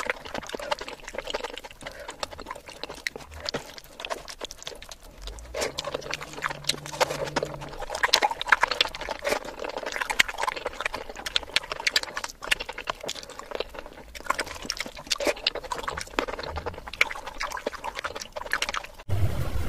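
Close-miked wet chewing and lip-smacking of a mouthful of fish curry and rice eaten by hand: a dense run of irregular sticky clicks and squelches. Near the end it cuts abruptly to a louder, steadier low noise.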